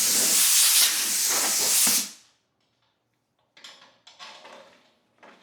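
A loud, steady hiss of spraying air or spray that cuts off about two seconds in, followed by faint rustling and handling noises.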